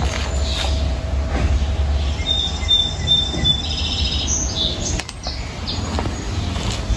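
Small birds chirping in short, high trills about two to five seconds in, over a steady low rumble, with a sharp click near five seconds.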